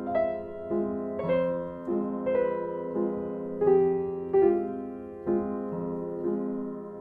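Background music: slow, gentle piano notes struck one after another, each ringing out and fading.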